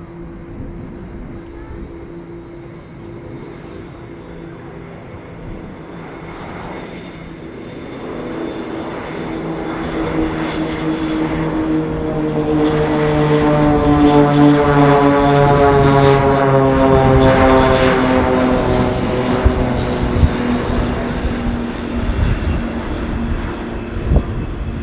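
Airbus A400M's four Europrop TP400 turboprop engines and propellers making a low pass: a droning propeller hum with a stack of steady tones that swells to its loudest a little past halfway, then drops in pitch and fades as the aircraft goes by.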